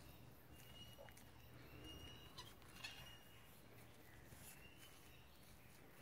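Faint bird calls: a few short, thin whistles, each held on one note, with two soft clicks near the middle; otherwise near silence.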